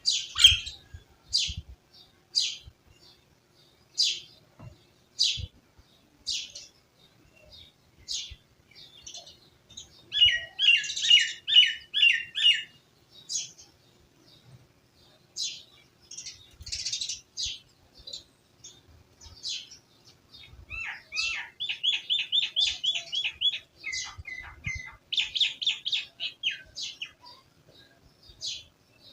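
Small birds chirping: short single chirps about once a second, broken twice by fast trilled runs of repeated notes, first briefly about a third of the way in and then for several seconds in the later part.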